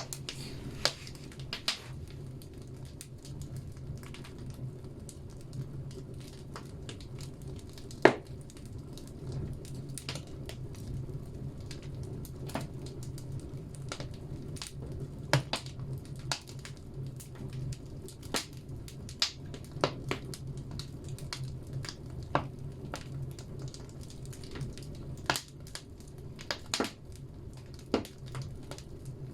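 Firewood burning in a banya stove: a steady low rumble of the fire with irregular sharp crackles and pops from the logs, the loudest pop about eight seconds in.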